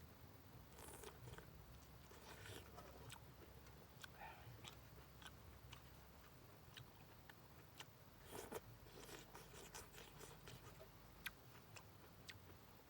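A person eating: faint chewing with small crunches and mouth clicks scattered throughout, a little louder about eight seconds in.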